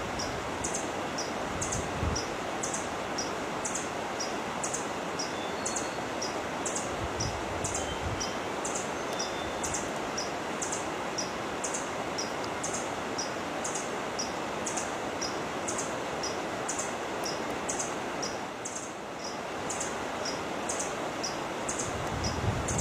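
A bird giving short, high chirps over and over at an even pace, about one to two a second, over a steady hiss of background noise.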